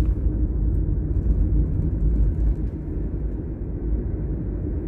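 A car driving along a town road: a steady low rumble of engine and tyre noise.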